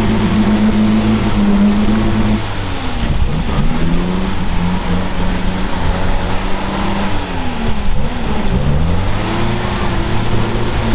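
Vehicle engine running under changing load. Steady for about two seconds, the revs then drop and rise and fall several times before settling near the end.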